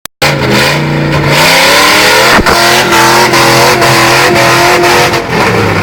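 Range Rover V8 engine revving hard against the rev limiter. It starts abruptly, and its pitch wavers up and down, with short regular cuts about twice a second.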